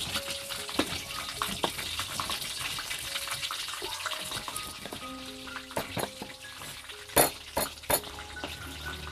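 Tofu frying in hot oil: a steady sizzle, with a few sharp knocks about seven to eight seconds in.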